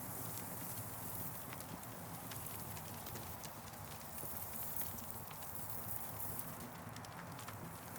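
Campfire burning and crackling, with irregular sharp snaps and pops over a steady low rush of flame.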